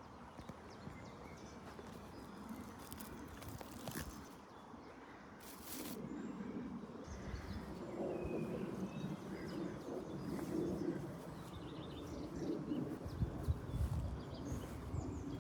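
Birds calling outdoors: low coos repeating every second or two from about six seconds in, over faint high chirps. A low rumble comes in near the end.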